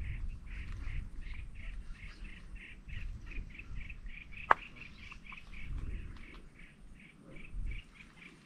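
A bird calling in a steady series of short repeated notes, about three or four a second, over a low rumble of wind on the microphone. A single sharp click about halfway through stands out as the loudest sound.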